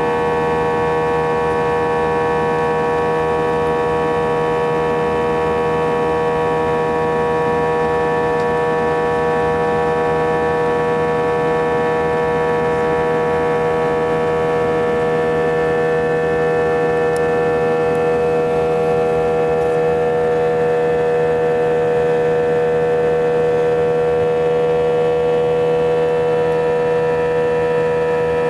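Airbus A320 cabin noise during takeoff: a loud, steady drone of the jet engines with a strong hum made of many held tones, the strongest a mid-pitched note. The noise is unusually loud and came with strong seat vibration, which several passengers took as a sign that something was not right.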